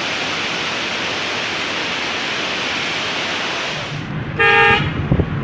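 Waterfall rushing steadily, cut off about four seconds in by a low rumble and one short vehicle horn toot.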